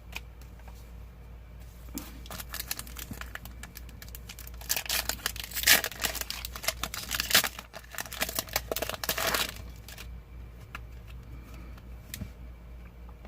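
Foil booster-pack wrapper being torn open and crinkled in the hands. There is a burst of crackling from about five seconds in to nine and a half seconds in, with lighter rustling before and after.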